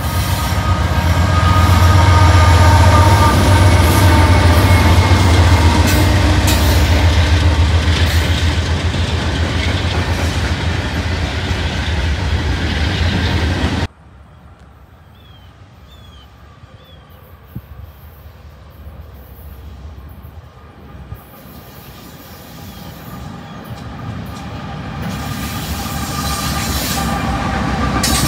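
Norfolk Southern diesel freight locomotives passing close by, a loud steady low engine drone over rail noise, which cuts off suddenly about halfway through. Then a quiet stretch with a few faint chirps, and another Norfolk Southern diesel locomotive approaching, growing steadily louder toward the end.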